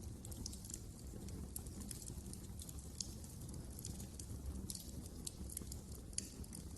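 Wood fire crackling: frequent small sharp pops and snaps over a low steady rumble, with a couple of louder pops.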